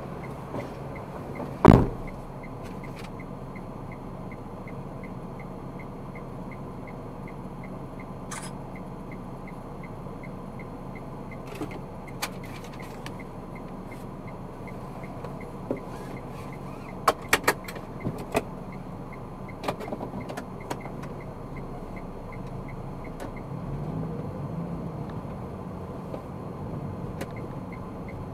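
Steady road and engine noise of a moving car heard from inside the cabin, with a few sharp clicks and knocks: the loudest about two seconds in, and a quick run of them a little past the middle.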